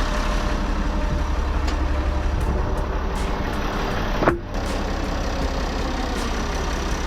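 A large engine idling steadily with a low rumble, interrupted by one brief sharp sound a little over four seconds in.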